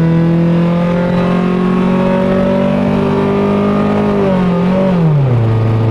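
Car engine pulling under acceleration, its note holding and slowly climbing. About five seconds in the revs drop as the automatic transmission shifts up, a shift called "funny".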